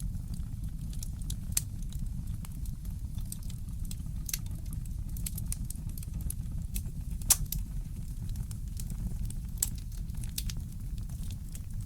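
Wood fire crackling in a fireplace: irregular sharp pops and snaps, one louder pop about seven seconds in, over a steady low rumble.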